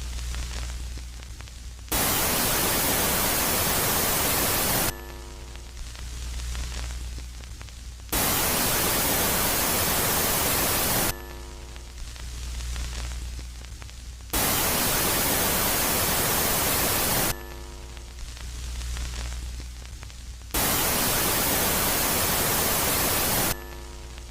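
Space-themed static soundscape alternating regularly between a loud phase and a quiet phase: about 3 s of loud, even static hiss, then about 3 s of quieter hiss over a low hum, each quiet phase opening with a short cluster of steady tones. Four loud phases come and go at an even pace of roughly one cycle every six seconds.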